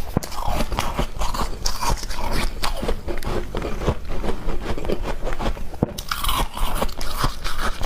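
A person biting and chewing squeaky ice close to the microphone: dense, continuous crunching and crackling.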